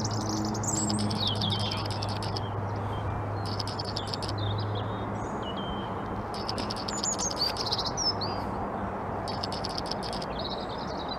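A songbird singing: repeated phrases of rapid chattering trills mixed with short whistled notes, every couple of seconds. A steady low hum sits underneath and fades about halfway through.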